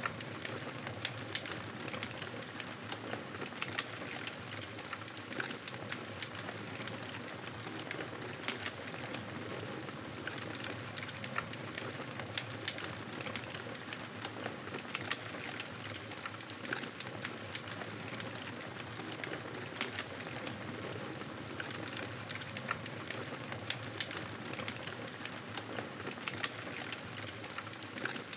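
Campfire crackling: a steady hiss of burning wood, dotted throughout with many small, irregular pops and snaps.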